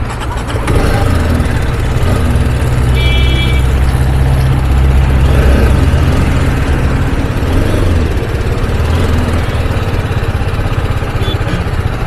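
A vehicle engine running with a steady low rumble, growing louder about a second in. A short high beep sounds about three seconds in.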